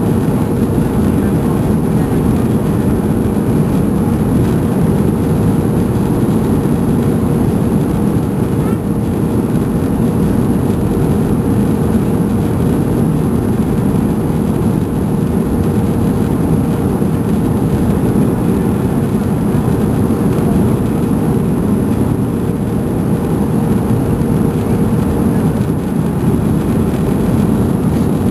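Steady cabin noise inside a Boeing 737-300 on approach: a constant rush of airflow and the drone of its CFM56-3 turbofan engines, with a steady hum that fades out near the end.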